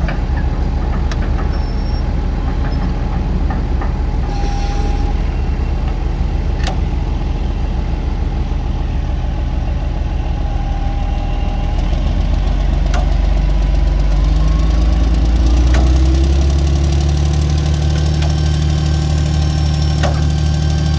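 Heavy diesel machinery engine running steadily, then speeding up and growing louder about fourteen seconds in, with a few sharp clicks scattered through.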